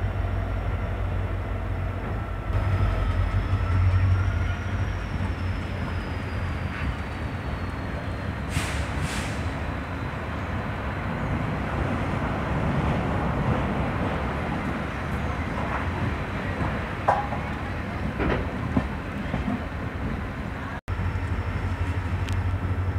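A passenger train coach in motion, heard from its open doorway: a steady rumble of the wheels on the rails with rushing air.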